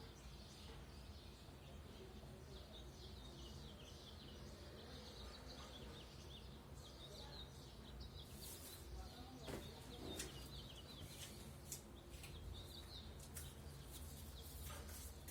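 Faint, rapid chirping of birds, many short high calls in quick succession, over a steady low background rumble. Sharp clicks or taps join in during the second half.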